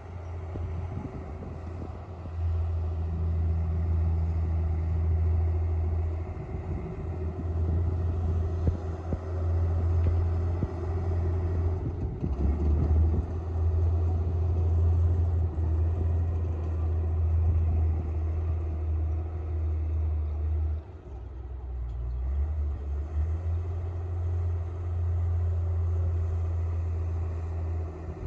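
Komatsu D58P bulldozer's diesel engine working hard, a steady low drone that rises and falls with load, dipping briefly about three-quarters of the way through.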